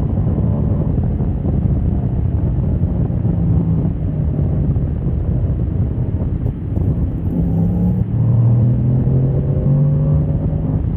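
Motorcycle engine running at speed, largely buried under heavy wind buffeting on the camera mic. The revs ease off through the middle and climb again near the end as the bike accelerates.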